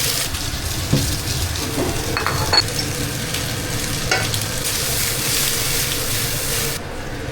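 Food sizzling in a hot pan while being stir-fried, with a few sharp knocks and scrapes of a spatula against the pan.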